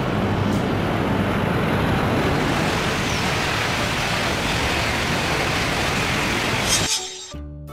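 Shinkansen bullet train rushing past at speed: a steady, loud rush of air and rail noise. It cuts off about seven seconds in and music begins.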